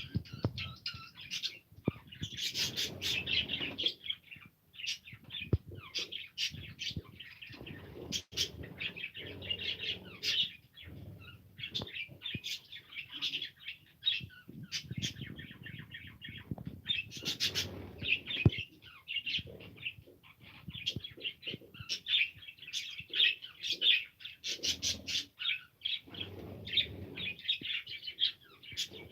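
Pet budgerigars chattering and chirping without pause in a dense, busy stream, with wing flutters and scattered sharp clicks.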